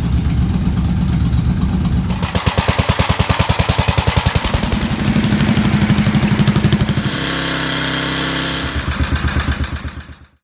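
1953 Country Squire garden tractor's engine running, freshly tuned up with new points and plug. Its note changes about 2 s in to a strong even pulsing and shifts again about 7 s in, then fades out near the end.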